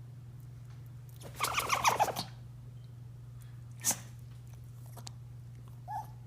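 A dog sneezing once about a second and a half in, a short pulsing burst that drops in pitch. A single sharp click follows near four seconds, over a steady low hum.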